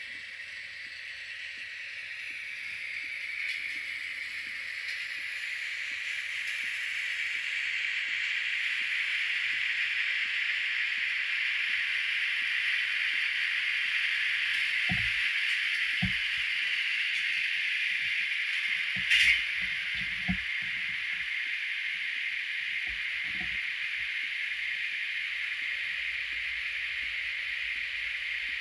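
A train running with a steady rushing rolling noise that builds over the first ten seconds and then holds. A few low thumps come between about 15 and 23 seconds in, and a sharp click about 19 seconds in.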